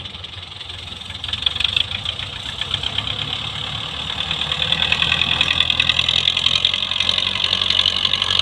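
Belarus tractor's diesel engine running with a rapid clatter, growing louder about a second in and again around the middle.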